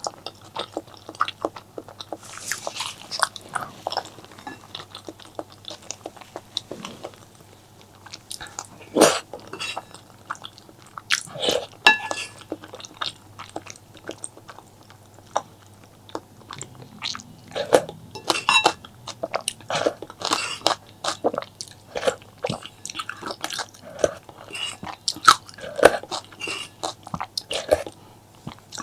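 Close-miked eating sounds: a person chewing and biting food, with irregular mouth clicks and a few louder bites now and then.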